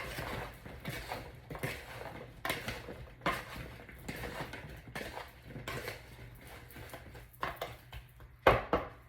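Cut bell peppers, zucchini and onion being tossed by hand in a bowl with oil and salt: irregular wet rustling with small clicks of vegetable pieces against the bowl, and a sharper knock near the end.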